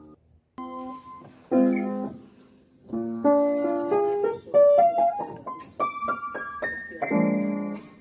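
Background piano music: single notes and chords, with a short run of rising notes in the middle, after a brief pause about half a second in.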